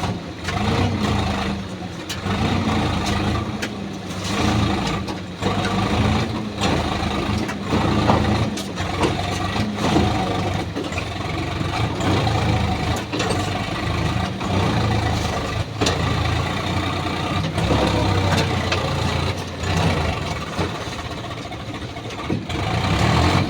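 Diesel tractor engine running hard, its pitch rising and falling as it revs, while the tractor is stuck and fails to pull free, with frequent short clicks over it.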